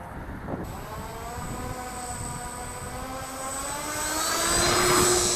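Electric motor and propeller of an RC model Cessna 182 running for a takeoff, a steady whine with many overtones that rises slowly in pitch and grows louder towards the end.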